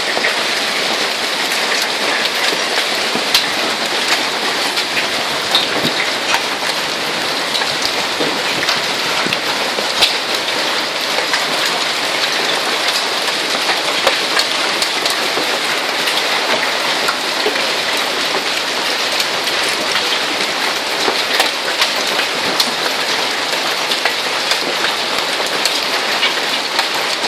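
Hail falling steadily: a dense hiss of impacts with frequent sharper clicks of individual hailstones striking.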